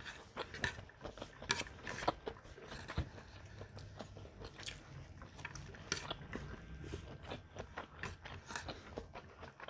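A person chewing and biting food close to the microphone: irregular crunches and wet mouth clicks, several a second, from a meal of fern salad, green mango salad, tocino and rice.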